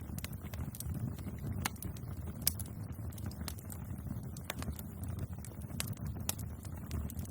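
Bonfire burning with a low steady rumble of flames and irregular sharp crackles and pops of burning wood, one louder pop about two and a half seconds in.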